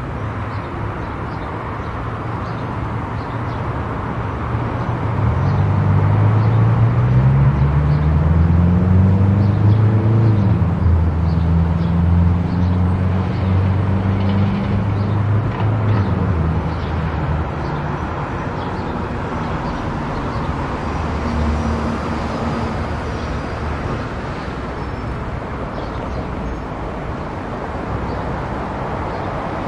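Car driving on a road: steady tyre and road noise, with an engine hum that rises in pitch from about five seconds in, holds steady, then fades after about sixteen seconds.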